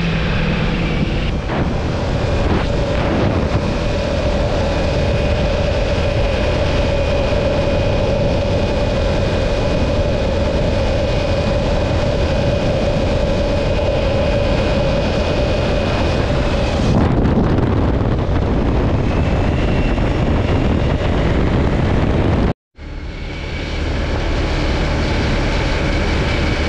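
Motorcycle riding at a steady speed: engine running with a held note under heavy wind rush. The note fades about two thirds of the way through, and the sound cuts out for a split second shortly after before resuming.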